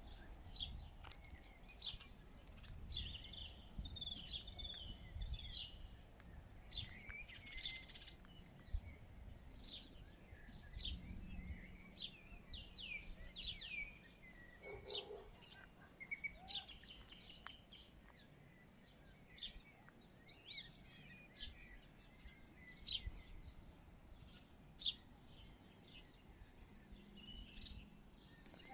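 Small birds chirping and calling, many short high chirps scattered throughout, faint against a low background hum.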